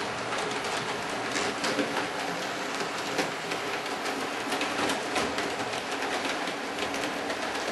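Hornby model locomotive running along the track: a steady rumble of motor and wheels with many irregular sharp clicks as the wheels pass over the rail joints.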